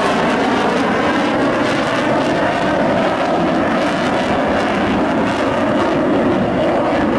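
Sukhoi Su-27 fighter's twin turbofan jet engines, heard loud and steady as the jet flies its display.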